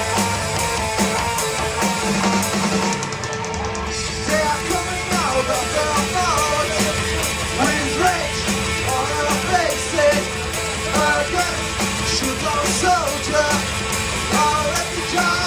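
A rock band playing live: electric guitars, bass guitar and drum kit, with a voice singing the melody from about four seconds in.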